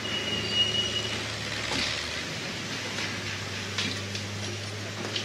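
A heavy machine's engine running steadily, with a few sharp knocks and a brief high beep near the start.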